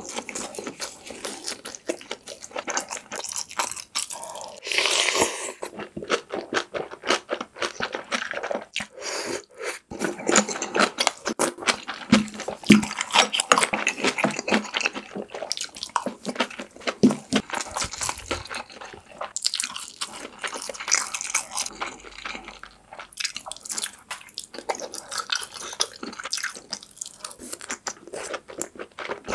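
Close-miked ASMR eating: chewing mouthfuls of braised kimchi stew with Spam and rice, a dense run of crunching and wet mouth sounds.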